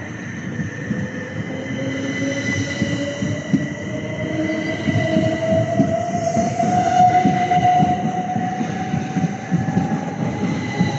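Electric multiple-unit train accelerating, its traction motors whining in a steadily rising pitch over the rumble of the wheels on the rails, growing louder as it comes closer.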